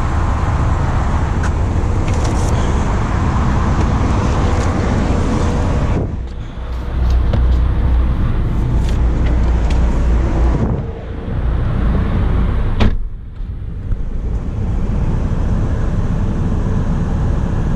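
Steady running noise of the 2020 Mazda MX-5 Miata, dipping briefly three times, with a sharp click about 13 seconds in.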